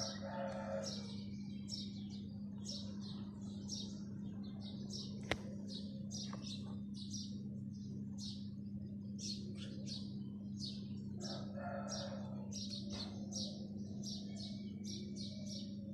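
Small birds chirping over and over, several short high chirps a second, above a steady low hum. A single sharp click sounds about five seconds in.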